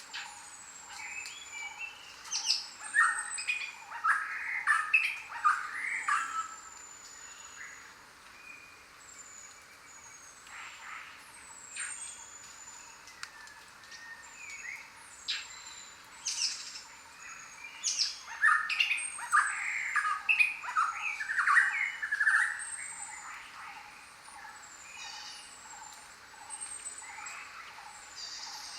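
Jungle birds calling: two loud bursts of rapid repeated notes, one a few seconds in and another past the middle, over thin high whistles that fall in pitch.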